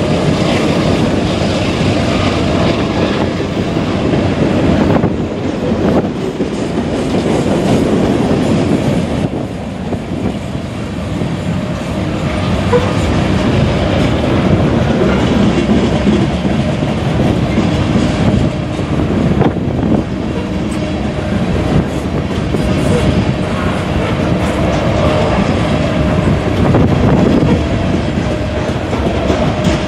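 A freight train's cars, mostly covered hoppers, rolling past at speed with a steady rumble and the clickety-clack of wheels over the rails.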